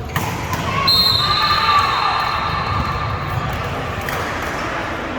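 A ball bouncing on a gym floor in a large echoing hall, with voices murmuring, and a high held tone about a second in that lasts roughly a second.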